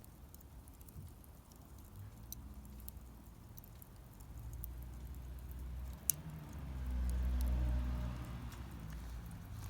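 Wood fire burning in a Solo Stove Campfire fire pit, crackling with scattered sharp pops, one louder pop about six seconds in. A low rumble swells through the middle and is loudest a little after the pop.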